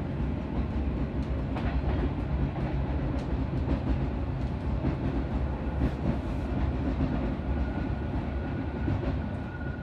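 Metre-gauge Matterhorn Gotthard Bahn train running, heard from inside the carriage: a steady rumble of wheels on rail with scattered clicks. A thin, steady high tone joins about seven seconds in.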